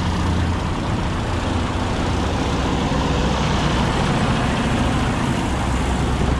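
Heavy truck diesel engine idling, a steady low hum.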